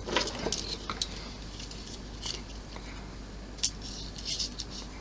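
Light clicks and rustling of small plastic model parts and a motor's wire being handled, with a sharper click about three and a half seconds in.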